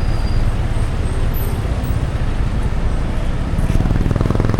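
Car driving through city traffic on a wet road: a steady low rumble of road and engine noise. Near the end a rapid, fast-pulsing engine sound grows louder.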